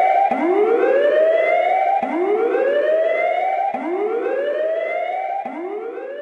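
Siren effect: a rising wail that sweeps up and levels off, starting over about every second and a half to two seconds, about four times, and slowly fading.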